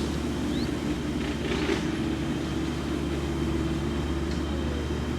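Golf cart running steadily, a low even motor hum as it is driven along.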